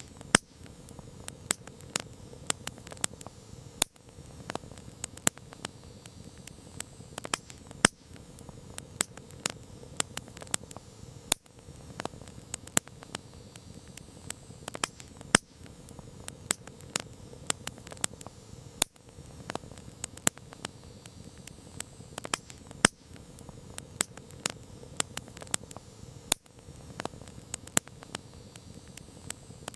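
Wood campfire crackling: irregular sharp pops and snaps, several a second, over a steady low rush of burning flames.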